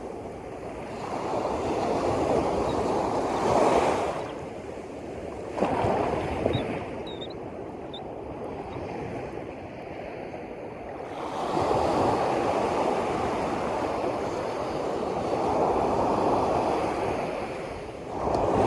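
Sea waves washing in, swelling and fading every few seconds, with some wind buffeting the microphone.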